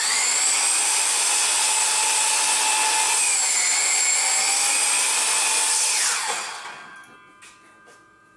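Electric power drill's motor running at a steady high speed with a whine, spinning up at the start and winding down about six seconds in.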